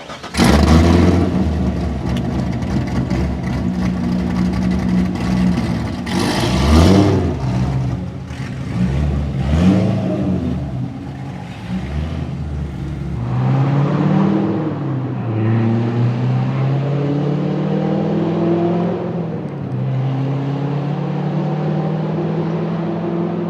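Corvette C6 Z06's 7.0-litre LS7 V8 through side-exit exhaust pipes, revving hard under acceleration. The pitch rises and drops several times in the first half as it climbs and shifts, then holds a steadier, slowly rising note.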